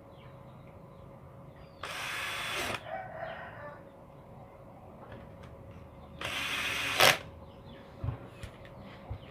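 Two short bursts of a power drill driving screws, each under a second, the second ending with a sharp jolt as the screw seats.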